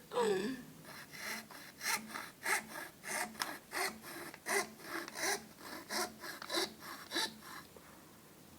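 Hand saw cutting through a sheet of plywood in quick, regular back-and-forth strokes, about two a second, stopping shortly before the end. A brief falling squeal at the very start.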